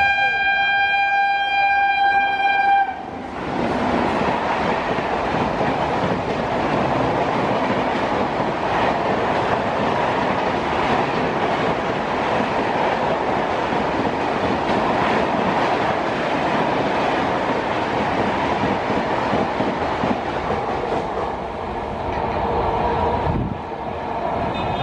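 WAP-7 electric locomotive's horn held on one long note, cutting off about three seconds in. Then a long passenger train goes past at speed: a loud, steady rush and rattle of coach wheels on the track for about twenty seconds, easing off near the end as the last coach goes by.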